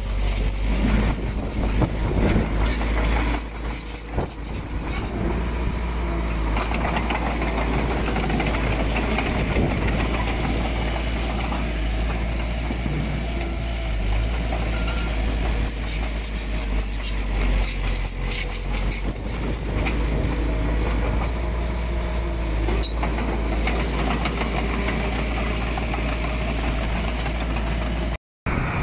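Diesel earthmoving machinery running steadily under load, with bursts of metallic clanking and clatter. The sound cuts out briefly near the end.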